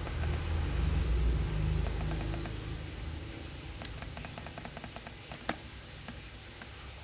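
A handheld DJI FPV Remote Controller 2 being handled, then clicked repeatedly: a low rumble of handling for the first few seconds, then a quick run of small sharp plastic clicks over about three seconds.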